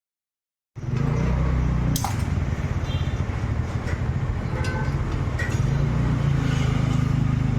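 Metal tools and parts clinking a few times over a steady low hum of workshop noise, after a brief dead silence from an edit cut at the start.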